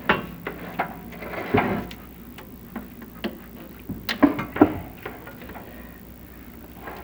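Chimney inspection camera and its cable knocking and scraping against the tile flue liner as it is lowered down the flue: irregular clicks and knocks, a few louder clunks about a second and a half in and again past four seconds.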